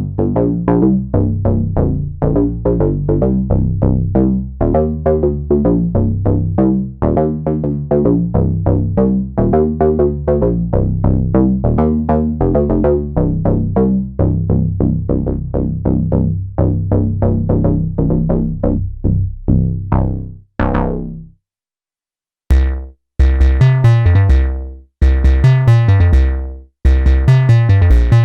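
Korg monologue monophonic analog synthesizer playing a factory preset: a rapid, even run of short bass-heavy notes, about four a second, ending with a falling sweep about twenty seconds in. After a two-second gap a different preset starts: brighter short notes, each dropping in pitch.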